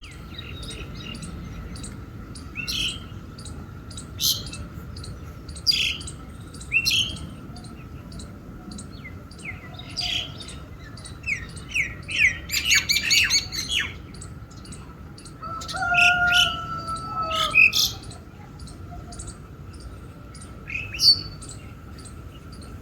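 Birds chirping and calling in short separate phrases, with a quick run of chirps near the middle, over a faint steady ticking.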